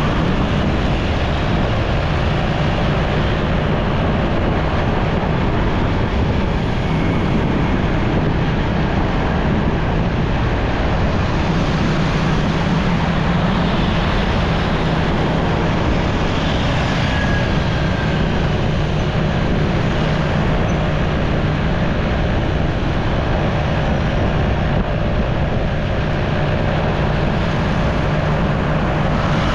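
Motorcycle running at a steady road speed, its engine drone mixed with wind and road noise.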